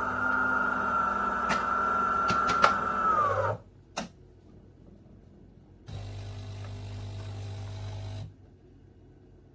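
De'Longhi Dinamica Plus bean-to-cup machine grinding beans: its built-in grinder runs with a steady high whine that sinks in pitch as it winds down about three and a half seconds in, followed by a click. A couple of seconds later the machine gives a lower steady buzz for about two seconds.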